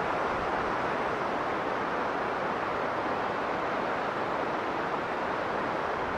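Strong blizzard wind blowing steadily, an even rushing noise with no gusts or breaks.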